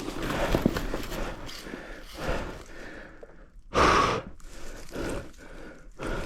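A person breathing hard, with irregular breaths and one loud, sharp exhale about four seconds in, typical of an exhausted rider.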